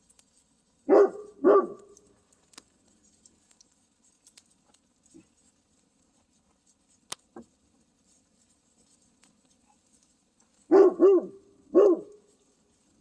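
A dog barking in two short bouts: two barks about a second in, then three more near the end. This fits a dog on guard, warning at something around camp.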